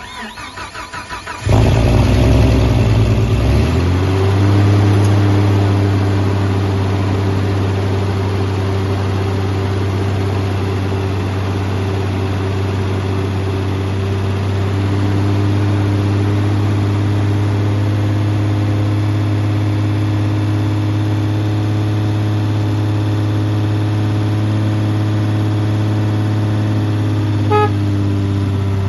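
Turbocharged Jeep 4.0 inline-six being started for the first time: the starter cranks it for about a second and a half, it catches, flares up in revs, and settles into a steady fast idle held for cam break-in.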